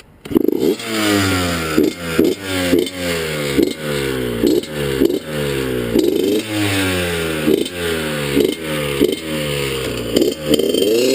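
Dirt bike engine, kick-started with the choke on, catching almost at once and then revved in quick repeated blips, its pitch surging and dropping two or three times a second. Near the end it settles into a wavering, uneven idle.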